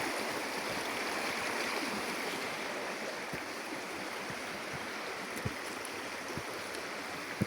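Running water rushing steadily, as of a stream, with a couple of faint knocks about halfway through and near the end.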